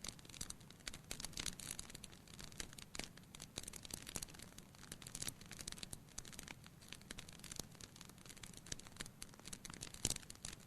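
Wood fire crackling, with many irregular small pops and snaps and one sharper pop about ten seconds in.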